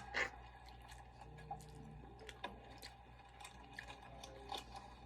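Faint eating sounds: wet mouth noises and chewing with scattered small clicks, a sharper one at the very start, over a low steady hum.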